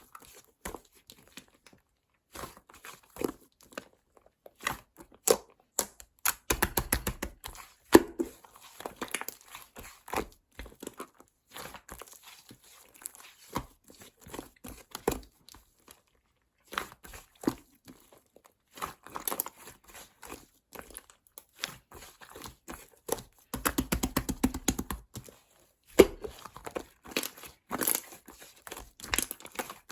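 Slime being squished and worked by hand, making sticky clicks and pops; twice the clicking thickens into a run of rapid crackling lasting a second or two.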